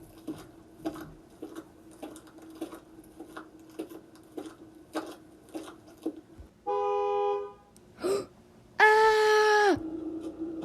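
Car horn honking twice: a shorter honk about seven seconds in, then a louder, longer one lasting about a second. Before them, an even ticking about twice a second runs over a steady low hum.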